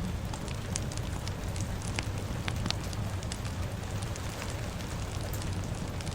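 Fire crackling, with frequent sharp pops scattered irregularly over a steady hiss of rain and a low rumble.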